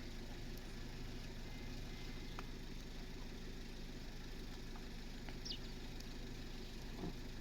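A motor running steadily at idle, a low even hum, with a few faint clicks and a brief high squeak about five and a half seconds in.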